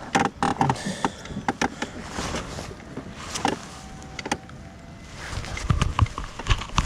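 Irregular sharp clicks and knocks, with a run of low thumps about five to six seconds in.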